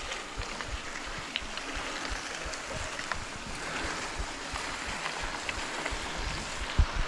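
Wind and motion noise on the camera microphone: a steady rushing hiss with irregular low buffeting and a few faint ticks.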